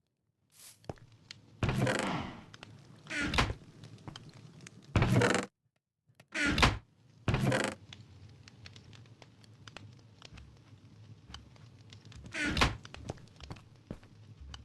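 A series of about six heavy thunks, unevenly spaced, the loudest about five and six and a half seconds in, over a faint low hum.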